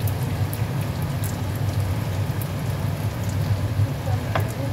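Lentil meatballs shallow-frying in oil in a nonstick wok: a steady sizzle with scattered small crackles over a steady low hum, and one light click near the end.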